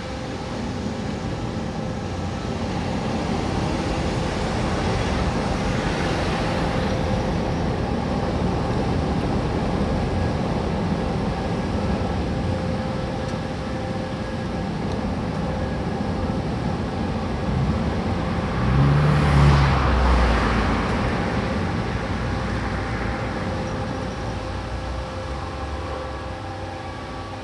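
Steady engine hum with a continuous mechanical rumble. Something louder passes close by about two-thirds of the way through, then fades.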